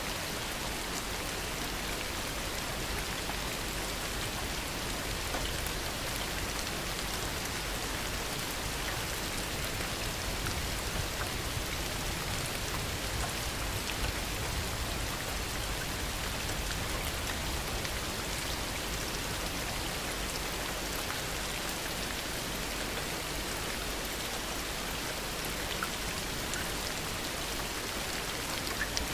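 Heavy rain falling steadily, with scattered drop ticks and no thunder heard.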